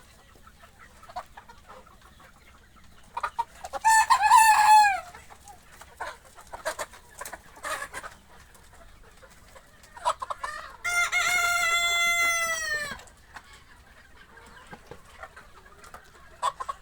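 Sonali chickens on a poultry farm: a rooster crows twice, a shorter crow about three seconds in and a long drawn-out crow about eleven seconds in, falling at the end. Short clucks sound between the crows.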